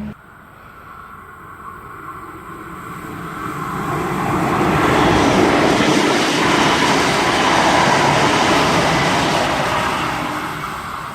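Train passing at speed: the rumble and rail noise build over about four seconds, stay loud for several seconds, then fade away near the end.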